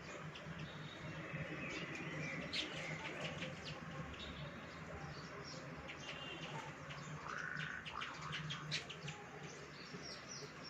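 Baya weavers chirping and chattering: a dense run of short, quick chirps with some buzzy notes mixed in.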